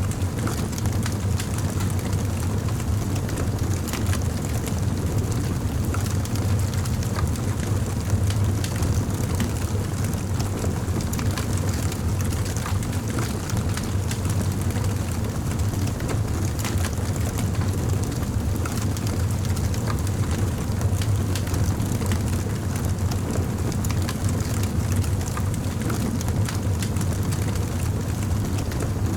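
Wood campfire burning with a steady low roar, dotted all through with sharp crackles and pops.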